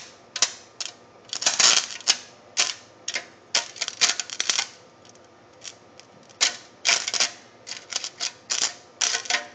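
Irregular crackling and sharp snapping in short clusters, several bursts a second with brief pauses between: electrical arcing as the leads of a rewound high-current microwave-oven transformer spark against metal.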